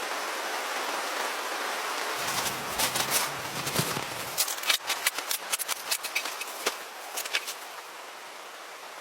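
Steady rain hiss. From about two seconds in, a dull low rumble, then a quick run of sharp clicks and cracks that dies out near the end.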